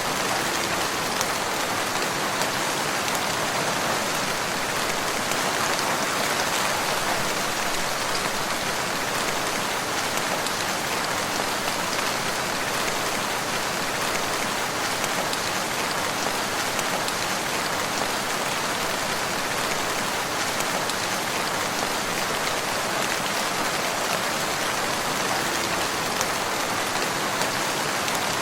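Steady rain falling: an even, unbroken hiss with fine drop ticks scattered through it.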